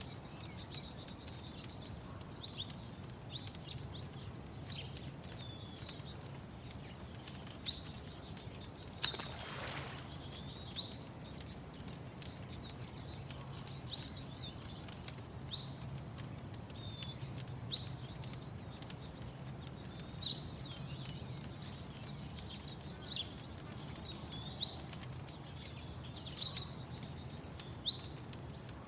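Small bird chirping: short high chirps repeated irregularly, about one a second, over a steady low rumble, with a brief whoosh about nine seconds in.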